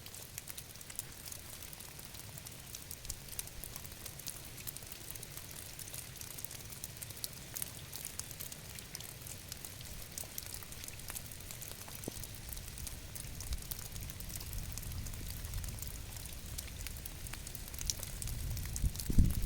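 Steady rain falling, with many small drop clicks over a low, even rumble. A brief louder low rumble comes near the end.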